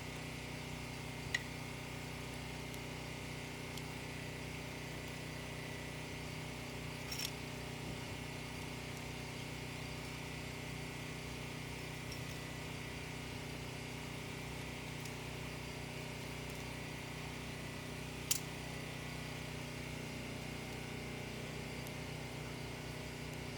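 Steady mechanical hum with a thin constant whine above it, like a small motor or engine running without change. A few faint sharp clicks are heard over it, about a second in, around seven seconds in and near eighteen seconds.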